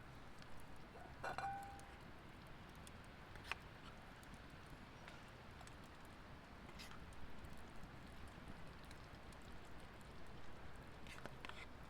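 Faint, sparse crackles and ticks of a campfire over a low quiet background, with one short ringing clink of metal or ceramic about a second in.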